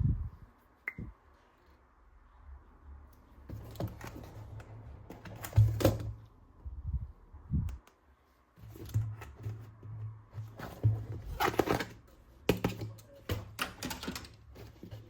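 Plastic toy gun parts being handled: a series of clicks, knocks and light clattering, thickest around the middle and again after about eleven seconds.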